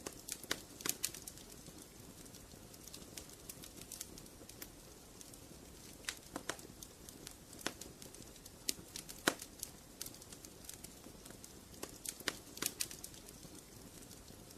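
Wood fire crackling in a fireplace: irregular sharp pops and snaps, some in quick clusters, over a soft steady hiss. The single loudest pop comes about nine seconds in.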